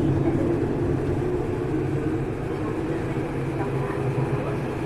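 Tokyu 1000 series electric train running, heard from inside a motor car: a steady rumble of wheels and traction motors with a low wavering hum, easing a little in level.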